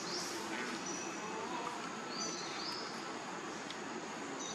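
Outdoor ambience of birds chirping: quick runs of short, high, rising chirps near the start and again about two seconds in, over a steady background hiss.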